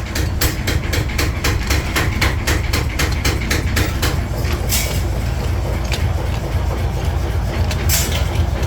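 Rapid, evenly spaced hammer blows on steel, about five a second, over a steady low machine rumble. The strikes thin out to a few scattered ones after about five seconds.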